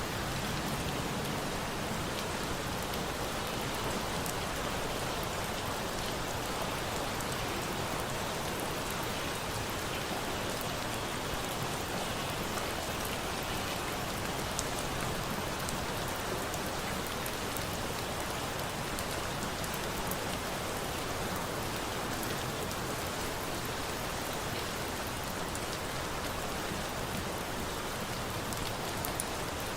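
Steady rain falling, an even hiss with scattered small sharp ticks through it.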